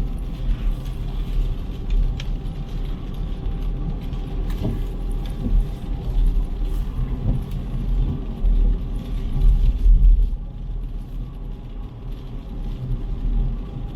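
City street traffic: motor vehicles running close by, with a steady low rumble and an engine hum throughout.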